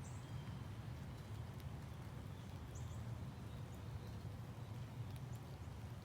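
Faint morning outdoor ambience: a steady low rumble with a few brief, high bird chirps, one near the start and one about three seconds in.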